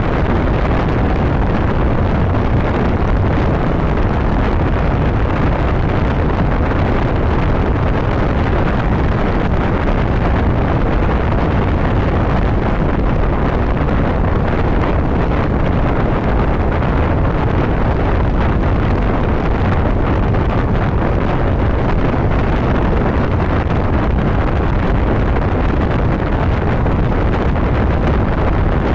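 Motorcycle riding at highway speed: a steady rush of wind over the microphone, mixed with the running engine and road noise, unchanging throughout.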